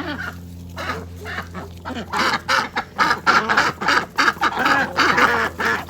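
Ducks quacking in a quick run of short, raspy calls that start about two seconds in, over a steady low hum.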